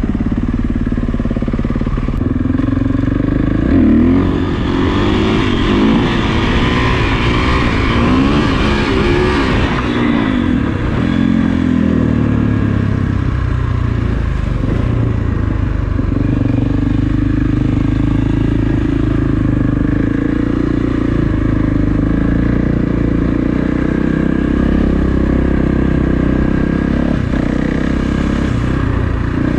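Kawasaki KX450F single-cylinder four-stroke dirt bike engine under way. Its pitch rises and falls repeatedly from a few seconds in, then settles into a steady note from about halfway.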